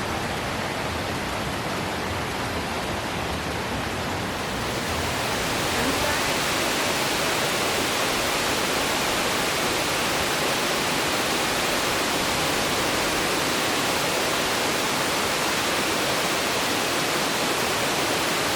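Steady rushing of a waterfall, which grows fuller and a little louder about five seconds in.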